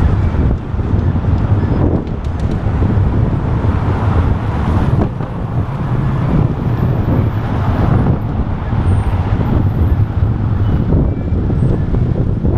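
City street traffic noise from passing cars, with steady low wind rumble on the microphone.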